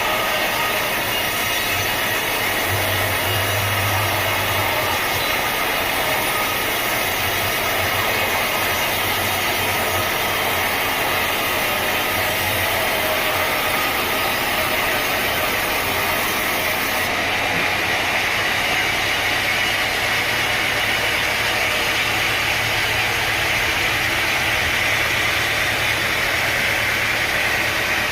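Sawmill machinery running steadily: a motor hum under a continuous hissing noise, with the high end dropping away abruptly about two-thirds of the way through.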